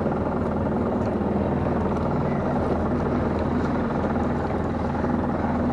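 Small fishing boat's engine running steadily, an even low drone.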